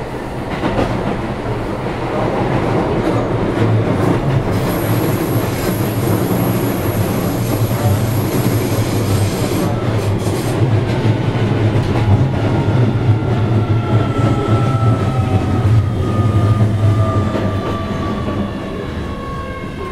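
Keio 7000-series electric train car running, heard from inside the car: a heavy rumble of wheels on rail with a thin high tone for a few seconds. From about twelve seconds in, a whine falls steadily in pitch as the train slows.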